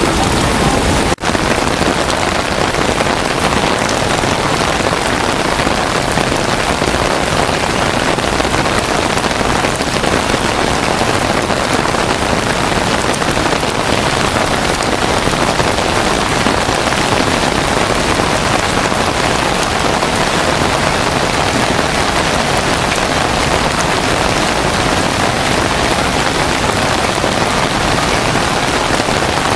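Torrential rain pouring down in a loud, steady hiss, with a momentary break about a second in.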